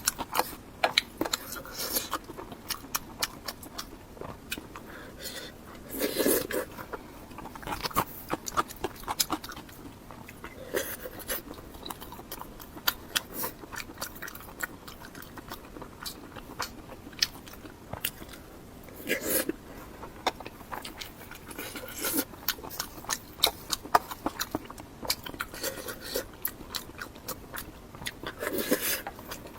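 A person chewing food close to the microphone, with a steady run of wet mouth clicks and smacks. A few louder bites come about six seconds in, near the middle and near the end.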